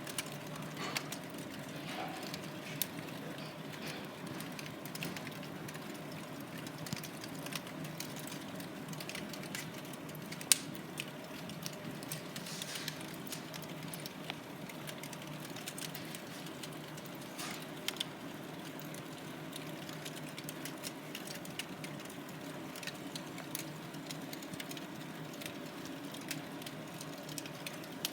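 Log burning in a fireplace, crackling with irregular sharp pops over a faint steady background noise; one sharper pop about ten seconds in.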